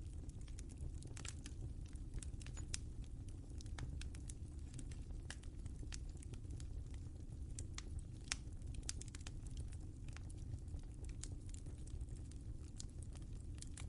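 Wood fire crackling in a fireplace: a low steady rumble of flames with frequent irregular sharp pops and snaps.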